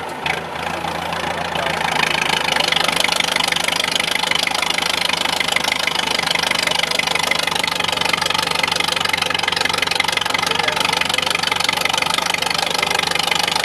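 IFA W50 off-road trial truck's engine running, rising about two seconds in to steady high revs and held there, with a short click near the start.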